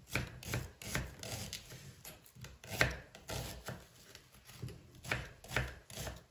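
Knife chopping food on a cutting board: a run of short sharp strokes, roughly two a second, with uneven spacing.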